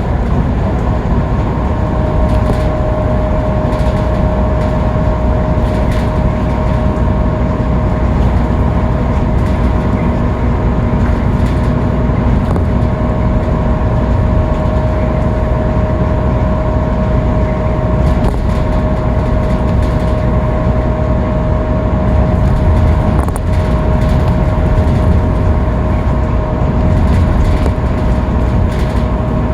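Scania K310UB city bus running at a steady cruise, its engine and road noise constant, with a steady high whine over the rumble.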